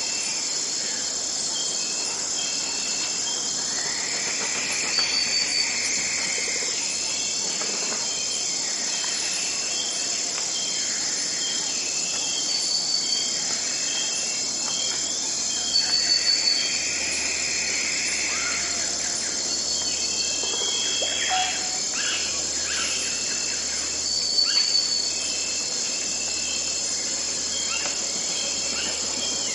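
Forest ambience: a steady, high-pitched chorus of insects runs under birds calling on and off, with short repeated high chirps and several longer calls.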